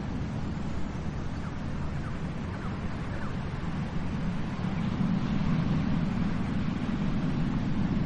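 Ocean waves washing onto a beach: a steady low rush of surf that swells louder about five seconds in.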